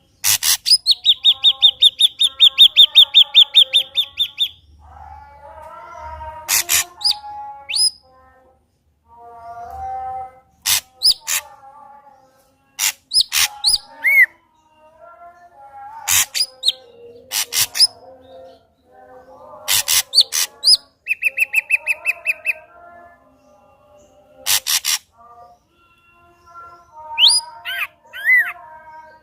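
Ashy drongo singing a varied song. It opens with a loud, fast trill lasting about four seconds, followed by sharp upswept notes and lower warbling phrases, with a second, shorter trill about two-thirds of the way through.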